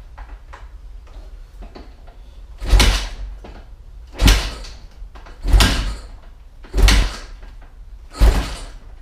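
Honda CRF450R's single-cylinder four-stroke engine being kick-started from cold: five kicks, one about every second and a half, each a short burst as the engine is spun over without catching.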